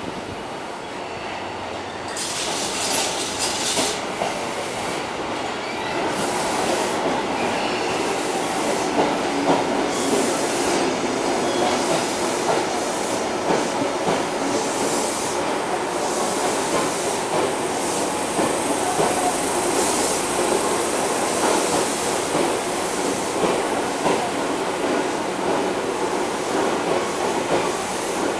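Tobu electric commuter train pulling into the station and rolling slowly past the platform. The wheels clatter over the rail joints, with intermittent high-pitched squeal from the wheels and brakes. It grows louder about six seconds in as the cars come alongside.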